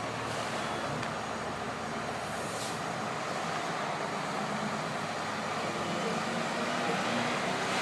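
International DT466 diesel engine of a 1993 International 4900 dump truck running steadily, slowly growing louder near the end.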